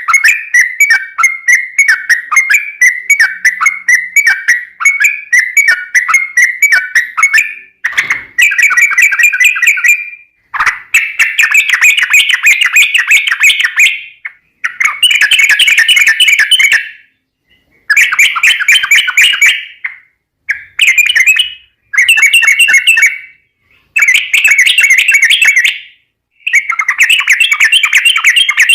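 Yellow-vented bulbul (trucukan) singing vigorously: fast, chattering runs of notes, unbroken for the first eight seconds or so, then bursts of a couple of seconds each with short pauses between.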